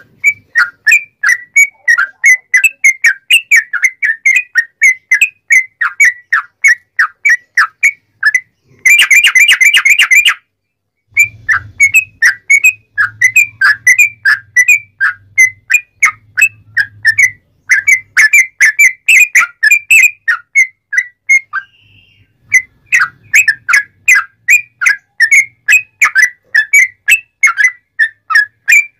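Sooty-headed bulbul (trucuk) singing loudly: a long run of short, clear whistled notes, several a second, with a dense, rapid trill about nine seconds in, then a brief break before the notes resume.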